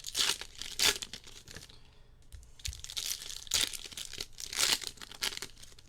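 Cardboard and plastic wrapping being torn and crinkled, in a run of irregular rips and rustles, as a sealed box of trading cards is opened.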